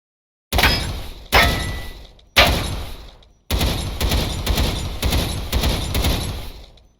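APS I MACH "Frost Stars" dual pistols firing: three single shots about a second apart, each ringing out, then a rapid string of shots at about three a second for some three seconds, fading away near the end.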